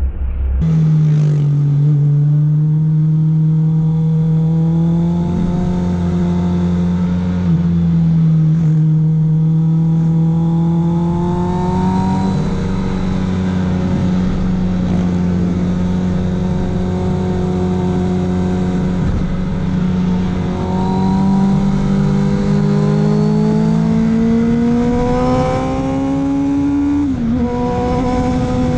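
Honda CBR650F's inline-four engine pulling under throttle on an uphill climb, heard from the rider's seat. Its pitch climbs slowly through the second half as the revs rise, then falls sharply near the end.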